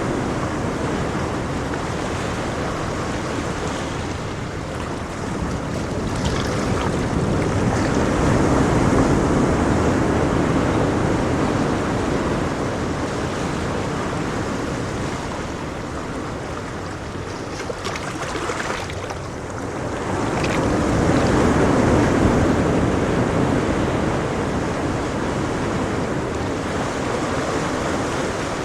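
Ocean waves washing onto a shore in a steady hiss, swelling twice, about a third of the way in and again past the middle.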